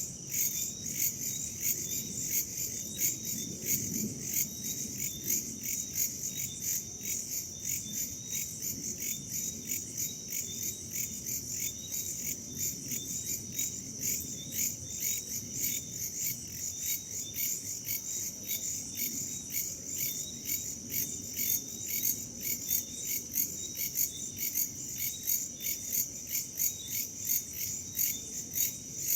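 Night chorus of crickets and other insects chirping in a fast, steady, regular pulse, with a faint low rumble of wind beneath.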